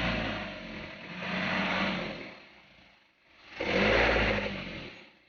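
Diesel engine revving up and falling back in repeated swells, about twice: loud around one and a half seconds and again around four seconds in, dropping almost to quiet between.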